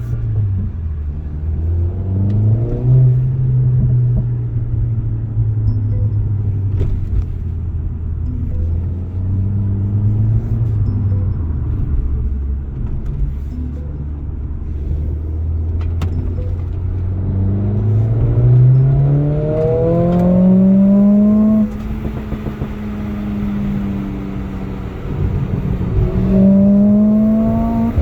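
Mercedes-AMG CLA 45 S's turbocharged 2.0-litre four-cylinder on its stock exhaust, heard from inside the cabin while driving. It cruises at a steady low note, then revs up under acceleration from about 17 seconds in, dropping suddenly at a gear change, with a second pull and shift near the end. A few sharp exhaust pops are scattered through it.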